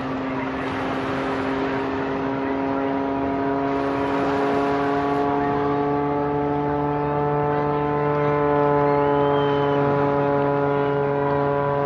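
Propeller aerobatic plane's engine and propeller running, heard as a steady buzzing drone with a stack of harmonics. Its pitch rises slightly and then eases back down as the plane manoeuvres.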